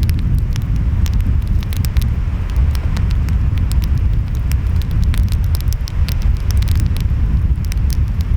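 Wood fire crackling, with frequent sharp pops and snaps, over a steady low rumble of ocean waves and wind.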